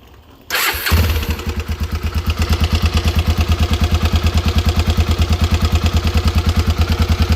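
Honda Twister motorcycle's single-cylinder four-stroke engine starting about half a second in and settling into a steady, evenly pulsing idle. It carries an engine noise that remains after a new connecting rod, piston, rod bearings and gasket were fitted; the cylinder head was left untouched.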